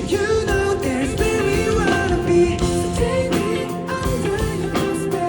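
Pop-rock band music played live over a sound system, with guitar over a steady drum beat.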